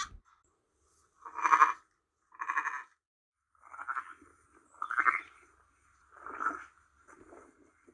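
Lambs bleating: about six separate short bleats, one every second or so, with the last one fainter.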